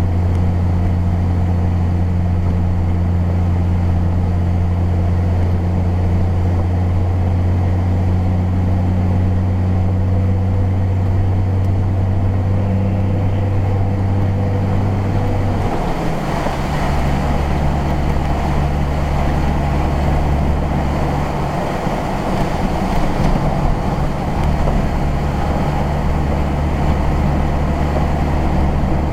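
Engine and road noise of a moving car, heard from inside the cabin: a steady engine hum over tyre noise. About halfway through, the engine note drops to a lower pitch, as with a gear change or a change of speed.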